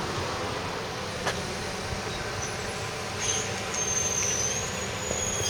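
Steady road traffic noise, with a single sharp click about a second in and a thin high whine in the second half.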